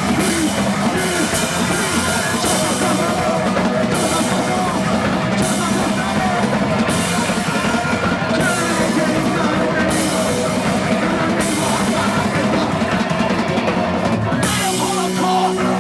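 Live rock band playing loudly, led by a drum kit, with a crash recurring about every second and a half.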